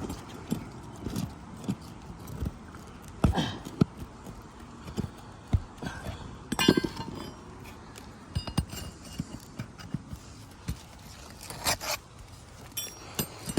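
A cat's paw pry bar working roofing nails out of asphalt shingles: irregular metallic clinks, knocks and scrapes, a few ringing briefly, loudest around the middle and near the end.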